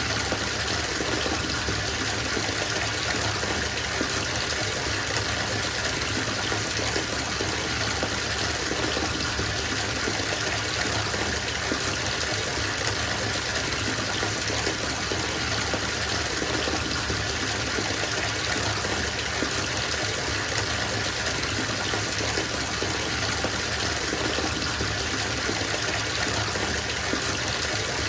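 Water running from a bathtub tap into the tub as it fills, a steady, even rush of water.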